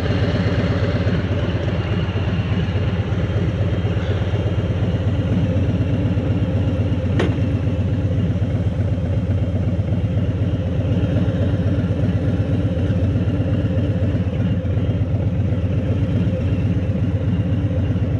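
Motorcycle engine running steadily at an even pace, with one sharp click about seven seconds in.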